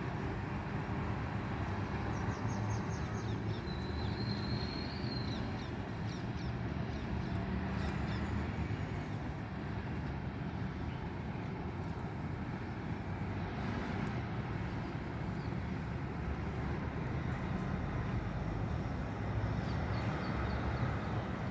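Steady rumble of road traffic, with a few short bird calls and chirps over it a couple of seconds in and again near the end.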